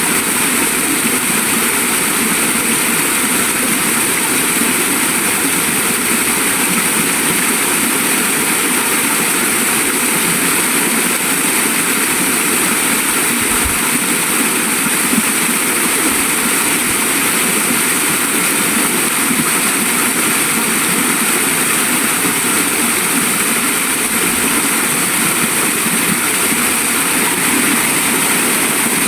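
Waterfall or fast stream rushing: a loud, steady, even roar of falling water.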